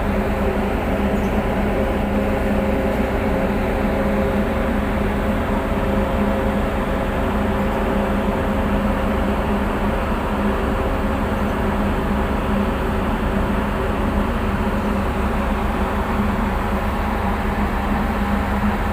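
Tug boat's diesel engines running steadily: an even, low drone with a constant hum that does not change.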